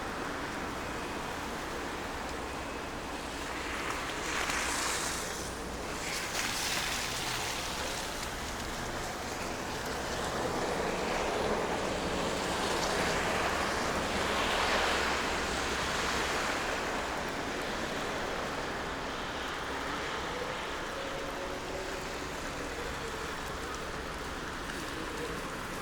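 Downtown street ambience in snowfall: a steady hiss of traffic, with a vehicle passing about four seconds in and a longer, louder pass from about ten to sixteen seconds in.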